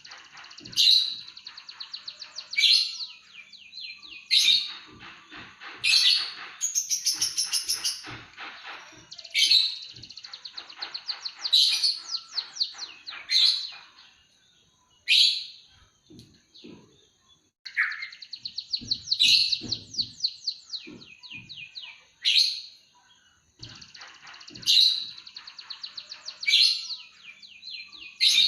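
An emprit kaji songbird singing a busy, canary-like song: sharp high chirps and fast rattling trills in repeated phrases, with brief pauses between them.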